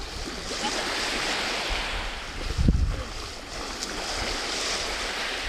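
Sea of Azov waves washing, the hiss swelling and ebbing, with wind buffeting the microphone in a low thump about two and a half seconds in.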